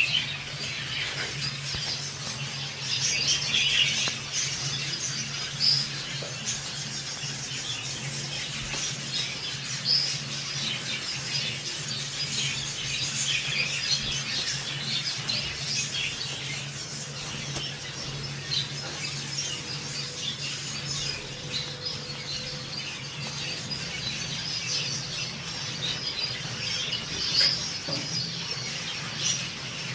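A flock of budgerigars chirping, chattering and squawking without pause, with a steady low hum underneath.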